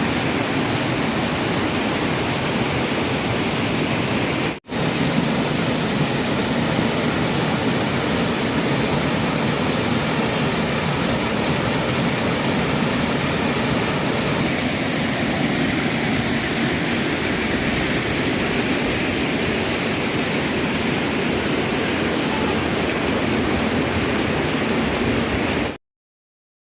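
Waterfall water rushing and splashing as a steady, even roar, broken by a momentary gap about four and a half seconds in and cutting off abruptly near the end.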